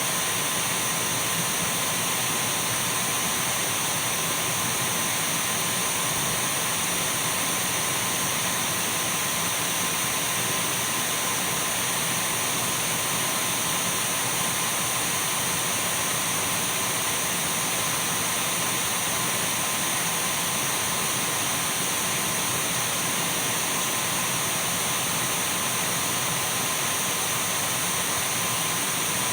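Dyson V12 cordless stick vacuum running steadily: a continuous rushing airflow hiss with a thin high whine over it and a fainter, lower steady tone.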